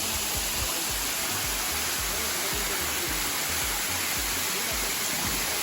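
Steady rush of a waterfall: a dense, even noise of falling water that does not let up.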